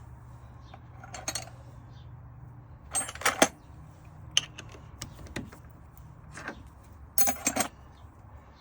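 Small metal tools and parts clinking and clattering as they are handled and set down, in a few short clusters, the loudest about three seconds in and again near the end, over a steady low machine hum.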